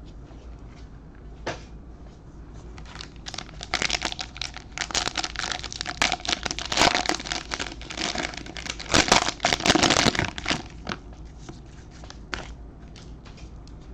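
Trading card pack wrapper being torn open and crinkled by hand, a dense crackling that builds about three seconds in, is loudest near the ten-second mark and dies away to a few small rustles near the end.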